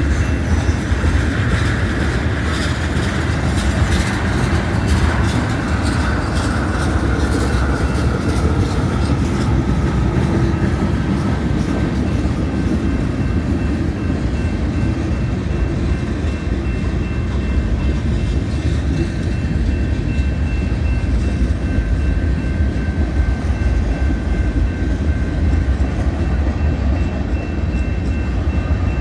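Manifest freight train rolling past: a steady heavy rumble of wheels on rail, with quick clicking over rail joints in the first few seconds and a thin, steady high squeal through the later part.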